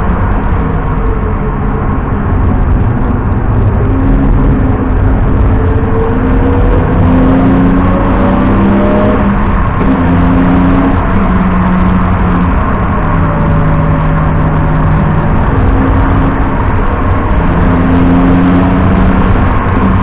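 BMW 330i E90 straight-six engine accelerating hard and shifting through the gears. Its note climbs and then drops at each shift several times, over a steady low rush of road noise.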